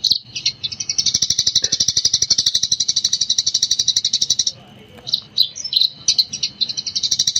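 Eurasian tree sparrow chattering: a very fast, unbroken run of high chirps, the continuous 'gecor' style of song. The run breaks off about halfway into a few separate chirps, then the fast chatter resumes near the end.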